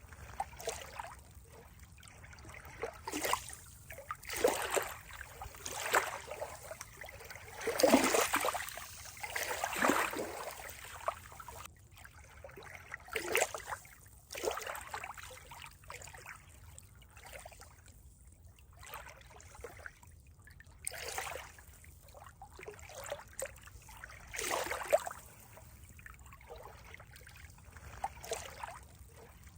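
Water trickling and splashing in uneven surges a second or two long, the loudest about eight seconds in.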